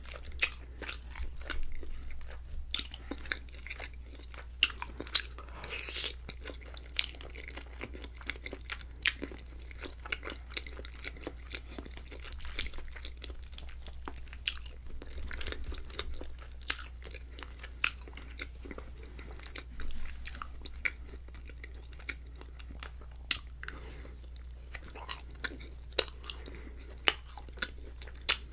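Close-miked chewing and wet mouth sounds of someone eating creamy fettuccine alfredo, with irregular sharp clicks and smacks scattered throughout and a steady low hum underneath.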